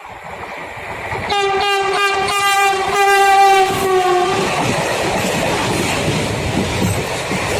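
Freight train locomotive sounds one long horn note of about three seconds, the pitch sagging slightly just before it cuts off. Under and after it comes the steady rumble and wheel noise of the train passing close by.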